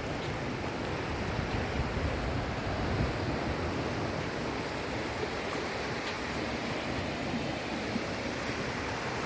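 Sea waves washing onto the shore in a steady rush of surf.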